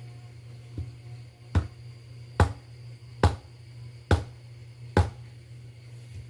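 Wood being struck in a steady rhythm: five sharp knocks a little under a second apart, as when chopping or breaking sticks for firewood, over a steady low hum.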